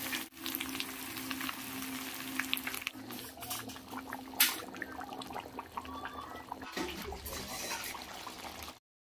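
Smoked pork and potatoes sizzling and bubbling in a metal wok: a steady frying hiss with many small crackles and pops. It cuts off to silence near the end.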